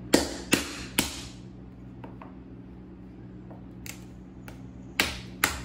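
Metal meat mallet striking a cooked stone crab claw to crack its hard shell. There are three sharp knocks in quick succession in the first second, a lighter knock about four seconds in, and two more sharp knocks close together near the end.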